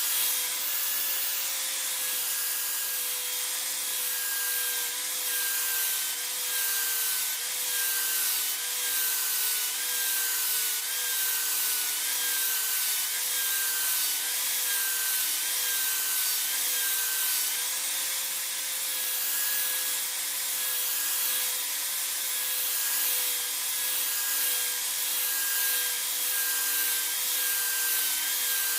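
An electric power tool's motor running steadily over a rough, dense hiss of the tool working the material. For a stretch in the middle, its pitch dips briefly about once a second as it is pressed into the work.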